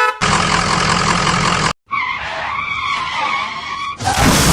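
Car sound effects cut together: a burst of engine and tyre noise, a sudden cut, then a wavering tyre-skid squeal, and another loud burst starting near the end.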